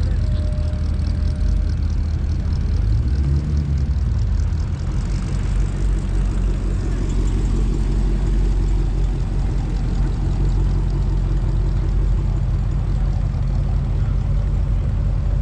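Car engine running at low speed, a steady low rumble whose pitch shifts about four to five seconds in.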